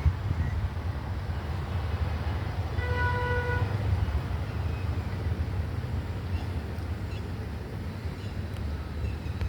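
A vehicle horn sounds once, a single pitched toot of under a second about three seconds in, over a steady low rumble.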